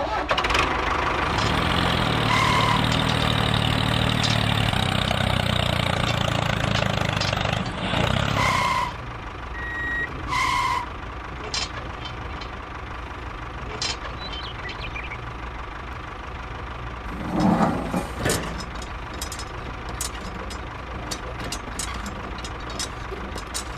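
Vehicle engine running steadily, louder for the first nine seconds and quieter after, with short beeps about 2.5, 8 and 10 seconds in.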